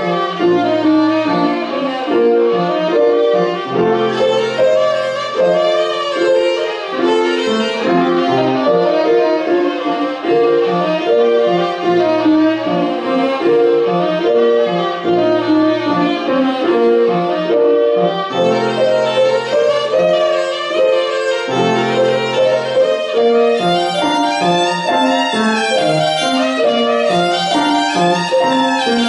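Violin playing a concert étude in quick, running notes, with piano accompaniment underneath.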